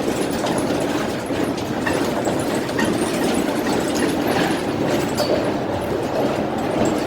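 A public transit vehicle in motion makes a steady low rumble, with faint scattered clicks and rattles over it.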